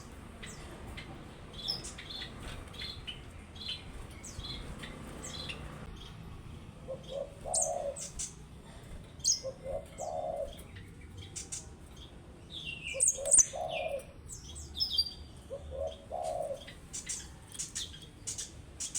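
Yellow-fronted canary (Mozambique canary) giving short, high, scattered chirps and notes. A lower call repeats about four times, roughly every two and a half to three seconds.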